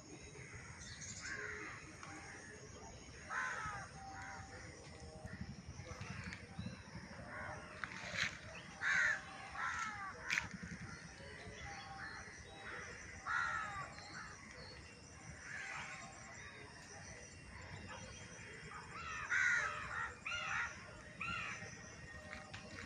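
Birds calling repeatedly, short separate calls every second or two with a few closer clusters, over a low steady background noise.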